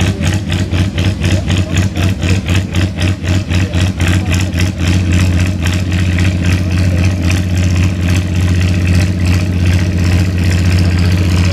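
Antique farm tractor engine running with an even, rapid exhaust beat, which smooths into a steadier drone after about five seconds.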